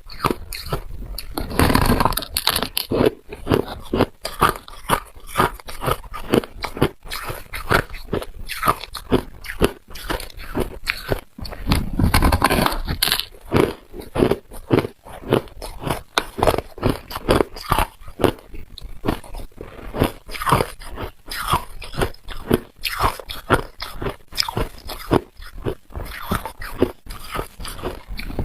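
Hard ice being bitten and chewed close to the microphone: a rapid series of sharp crunches and cracks, two or three a second, with heavier bites about two seconds in and again near the middle.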